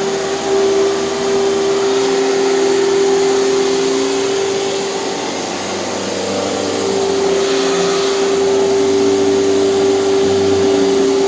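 Hoover canister vacuum cleaner running steadily, its motor hum and airflow hiss wavering slightly in pitch and level around the middle.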